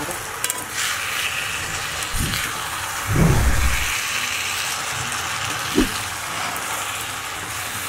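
Gongura (sorrel) leaves sizzling in hot oil in a kadai while being stirred and turned with a perforated metal spatula, with soft knocks of the spatula against the pan and a louder, heavier scrape a little after three seconds.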